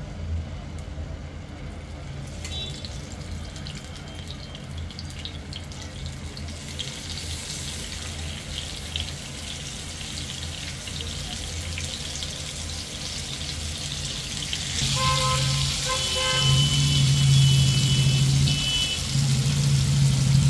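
Marinated chicken pieces sizzling in hot oil in a frying pan as they are shallow-fried, the sizzle growing louder as more pieces go in. A steady low hum runs underneath, and in the last few seconds a louder low humming tone with higher whining tones above it comes and goes.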